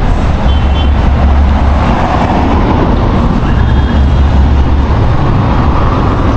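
Road traffic going by, a steady noise with a heavy low rumble.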